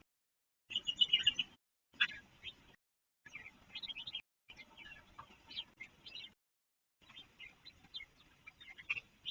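Red-whiskered bulbuls chirping and calling in quick short notes, the audio cut to dead silence several times in between.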